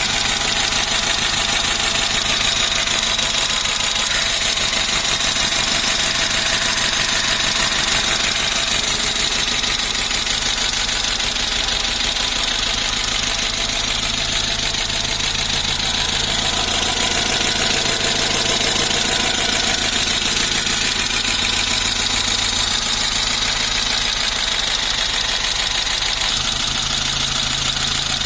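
VAZ-2101 (Zhiguli) inline-four engine fitted in a Moskvich 412, idling steadily, with a steady high whine over it.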